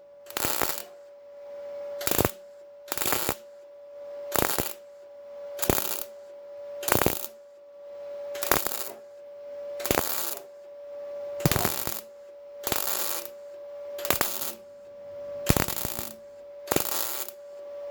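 MIG welder laying short bursts of weld, about thirteen crackling bursts of roughly half a second each, spaced about a second apart, over a steady hum. The weld is being stitched on in pulses to fill a small hole in thin car body steel without blowing through.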